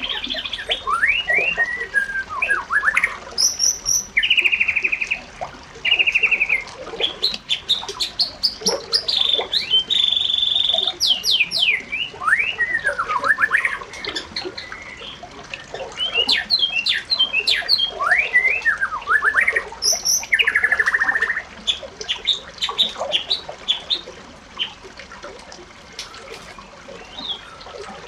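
Birds singing and calling: a busy, continuous stream of short chirps, quick whistled sweeps and buzzy trilled notes.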